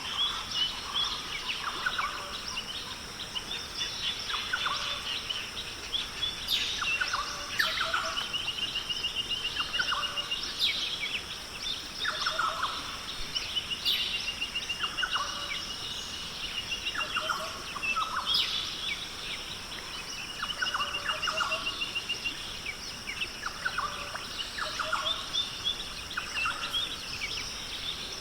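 Forest birds calling again and again, with short chirps and rapid trills, over a steady high-pitched hum.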